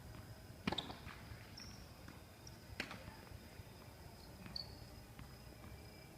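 Two sharp knocks of a tennis ball being struck, about two seconds apart, in a rally. A steady high insect chirring runs behind them.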